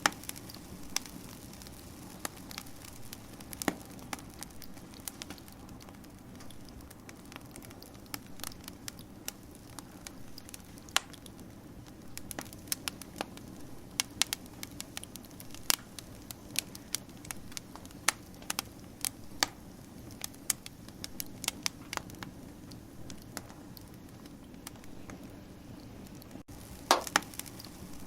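Wood fire crackling: irregular sharp pops and snaps over a steady low background, with a louder cluster of pops near the end.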